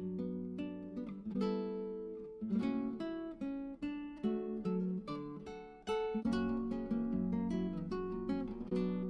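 Background music: acoustic guitar played in plucked and strummed chords.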